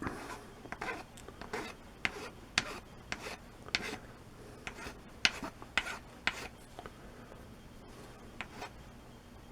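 Hand file rasping across walnut in short strokes, about two a second, thinning out to the odd stroke near the end. The file is worked in one direction only, to avoid chipping the repair piece.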